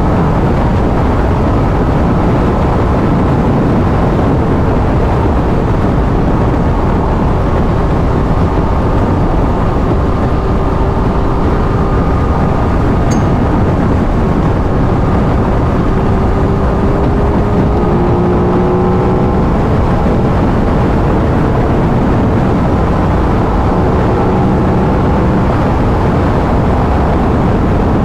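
Aprilia RS 660 parallel-twin on its stock exhaust cruising at a steady highway speed, its engine note drifting only slightly in pitch under heavy wind rush on the microphone.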